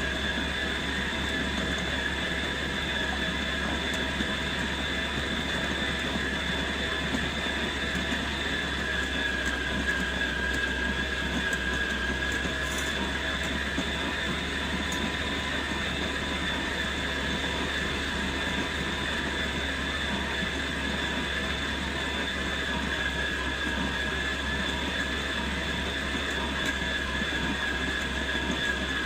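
Electric dough mixer motor running steadily as it kneads bread dough, a constant whine over a low hum.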